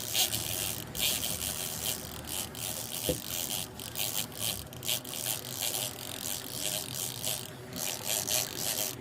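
Fishing reel working while a hooked bull mahi-mahi is fought on rod and reel: an uneven whirring rattle that flickers on and off, over the steady low noise of the boat.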